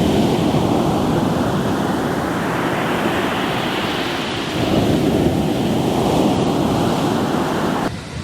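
Sea waves breaking and washing over a rocky shore, a continuous rush with a fresh surge about four and a half seconds in. The level drops sharply just before the end.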